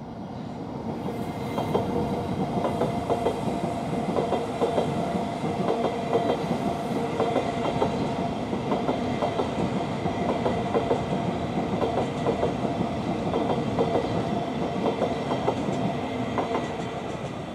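South Western Railway electric multiple unit running past, its wheels clattering over rail joints and junction points, with a steady motor whine underneath. The sound builds in the first couple of seconds and eases a little near the end.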